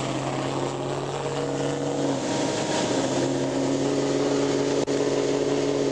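A car engine running with a steady hum, its note shifting about two seconds in.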